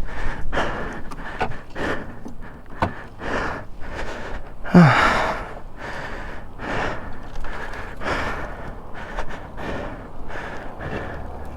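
A man breathing hard and fast in repeated short breaths close to the microphone, with one louder falling groan about five seconds in; he is shaken and out of breath just after crashing his motorcycle.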